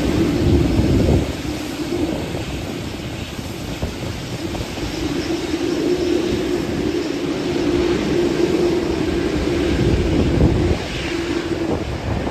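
Airliner engines running with a steady hum, heard through gusty wind buffeting the microphone.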